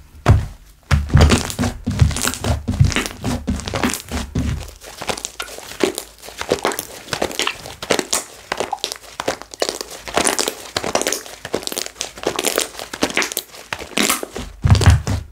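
Slime squished and stretched by hand, with a dense crackle of small air bubbles popping. Dull low thuds of the slime being pressed and slapped run through the first few seconds and come back near the end.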